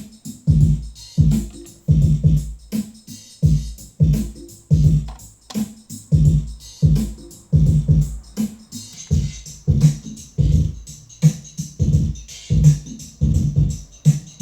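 Electronic music from a Korg Karma workstation played through an Eventide H3000S effects processor: a drum-machine and synth-bass groove with a heavy low beat about three times every two seconds. A hissy high layer joins about nine seconds in.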